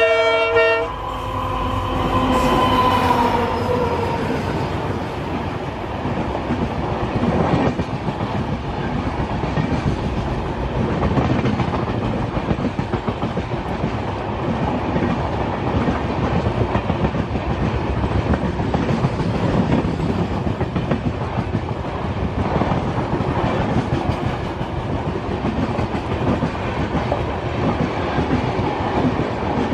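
Diesel-hauled express train passing at speed. The locomotive's horn sounds over the first few seconds and drops in pitch as it goes by. Then a long rake of LHB passenger coaches runs past with a steady rumble and clickety-clack of wheels on the rails.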